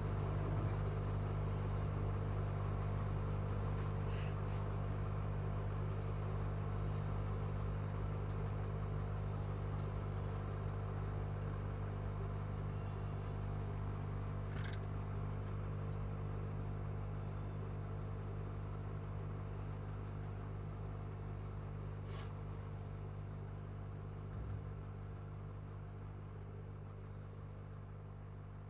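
Hot air rework station's blower running steadily with a constant hum, slowly growing fainter, while heat is applied to desolder a boost coil from a phone board; a few faint clicks.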